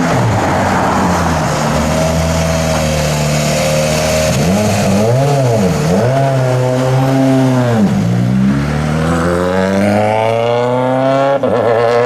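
Rally car engine running hard on a stage. Its pitch holds steady at first, then swings up and down through the middle as the throttle is worked, dipping sharply about eight seconds in. It then climbs steadily, drops near the end at a gear change, and climbs again.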